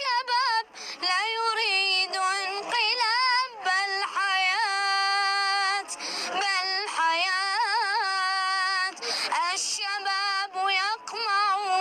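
A single high voice singing a national anthem solo, with strong vibrato on the held notes. The singing breaks briefly about six seconds in and again around nine seconds.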